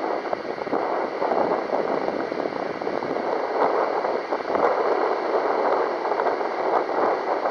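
Strong wind buffeting the microphone: a loud rushing noise that swells and dips with the gusts.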